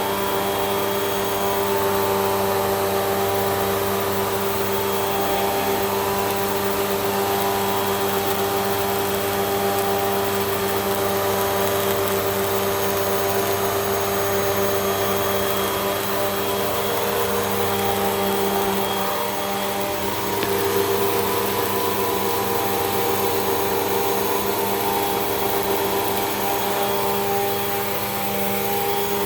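Hoover WindTunnel 2 Rewind upright vacuum cleaner running steadily: a constant motor hum with rushing air over it, shifting slightly about two-thirds of the way through.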